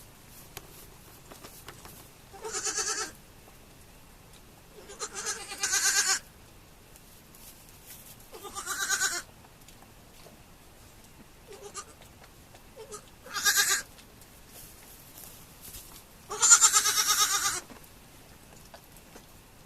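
Goat kids bleating: five separate bleats of about a second or less, a few seconds apart, the loudest coming near the end.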